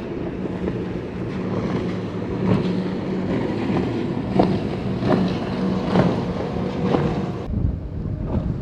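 Boat engine running steadily with a low hum, with wind buffeting the microphone in gusts. The sound changes abruptly about seven and a half seconds in.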